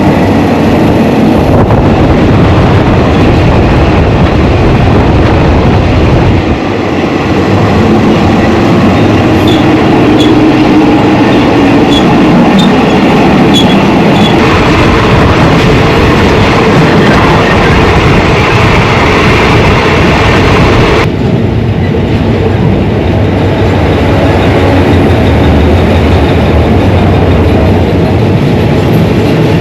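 Thai passenger train running along the line: a loud, steady rumble with the clatter of wheels over the rail joints. The hiss in the upper range drops away suddenly about two-thirds of the way through.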